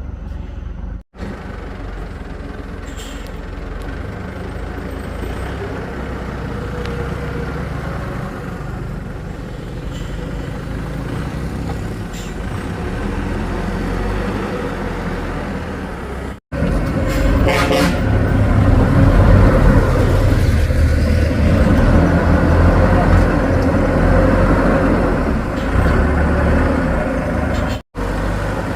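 Diesel engine of heavy construction machinery running steadily under work, broken by three abrupt cuts: about a second in, around the middle and near the end. After the middle cut the engine is louder, with a short rattle just after it.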